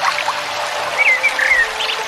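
Water trickling and splashing steadily, with a songbird's short whistled phrases about halfway through.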